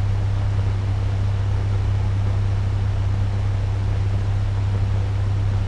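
Turbo fan running steadily at medium speed: an even rush of air over a strong low motor hum.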